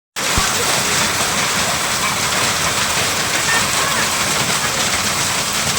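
A hailstorm: heavy rain and hailstones pattering down in a steady, dense downpour.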